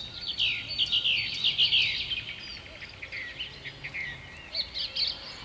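Songbirds singing: a run of quick, downward-sliding chirps, thickest in the first two seconds and again briefly near the end.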